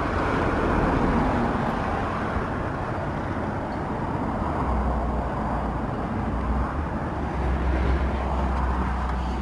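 Steady low rumble with outdoor background noise.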